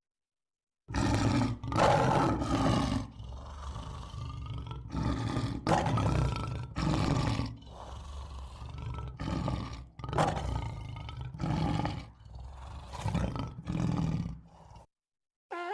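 Lion roaring: a long run of deep roars repeated every second or so, loud and softer calls in turn, starting about a second in and cutting off abruptly near the end.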